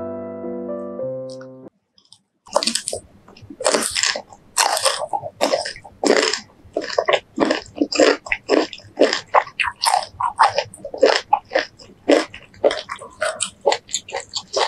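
Piano music ends about a second and a half in; after a brief silence come close-miked crunchy bites and chewing of a crisp raw green mango slice, a quick irregular run of crunches.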